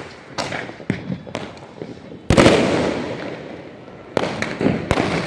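Fireworks and firecrackers going off: a series of sharp bangs, with one loud boom about two seconds in that fades away over a second or so, and two more loud bangs near the end.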